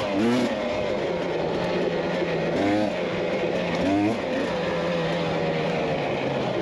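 Dirt bike engine running under way, revving up sharply three times (just after the start, near three seconds, and at four seconds) between steadier stretches, over a steady rushing noise.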